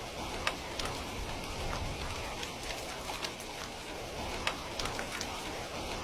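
Steady rain with a wood fire crackling over it: an even hiss of rainfall broken by irregular sharp pops, about one or two a second.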